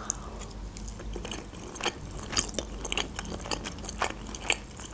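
A person chewing a mouthful of sushi roll with the mouth closed: irregular short clicks and small crunches, a few a second.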